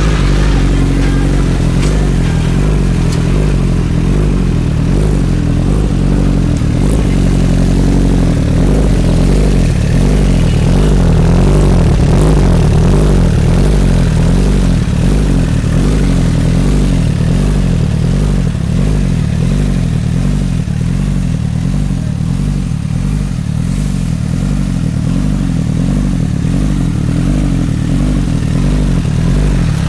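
2012 Honda CBR1000RR's inline-four engine idling steadily through a full carbon Leo Vince aftermarket exhaust.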